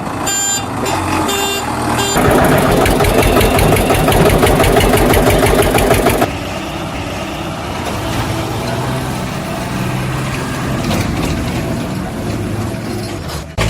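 Vehicle engine sound with a few short beeps in the first two seconds. The engine is loud and fast-pulsing until about six seconds in, then drops to a quieter steady running sound that cuts off suddenly near the end.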